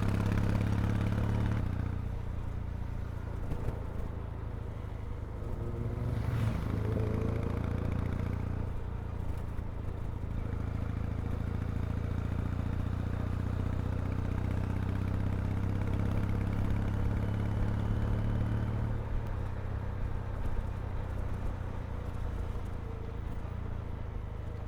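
Kawasaki W800's air-cooled vertical-twin engine and exhaust heard while riding, running steadily with the throttle eased about two seconds in, opened up again and eased once more near the end. A brief whoosh about six seconds in.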